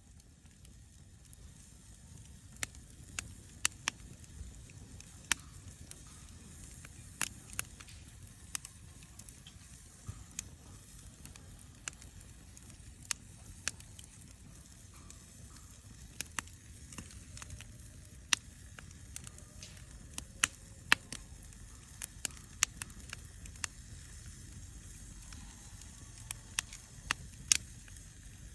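Wood fire burning in a Snow Peak fire pit: sharp, irregular pops and crackles every second or two over a low steady rumble.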